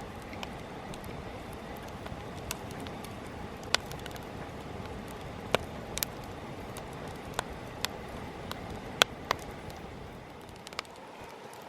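Wood campfire burning: a steady rush of flame with sharp, irregular crackles and pops from the burning wood, about a dozen of them, the loudest about nine seconds in.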